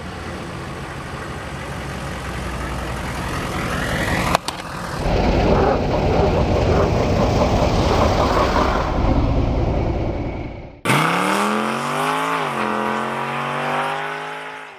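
A 1996 Chevy 1500's 6.5 turbo-diesel truck running: a steady rushing noise that swells louder about five seconds in. After an abrupt cut it gives way to a pitched engine drone that dips and comes back up, then fades out at the end.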